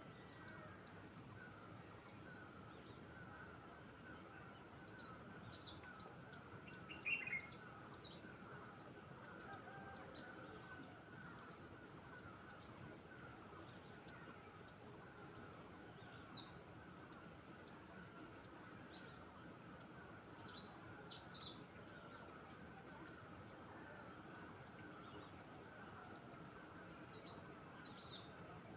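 A songbird singing short, high phrases, one every two to three seconds, over a faint, steady lower chirring.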